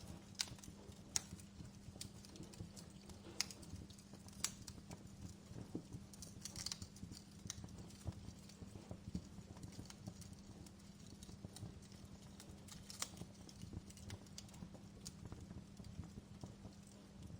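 Wood fire crackling: irregular sharp snaps and pops, a few louder than the rest, over a steady low hum.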